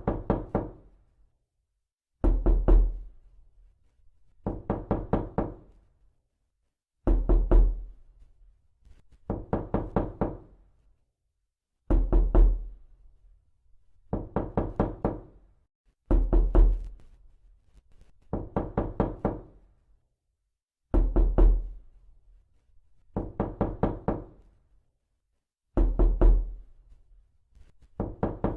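Repeated knocking on a door, in bursts of about four to six quick knocks, one burst every two seconds or so, with silence between. Some bursts open with a heavier, deeper thud.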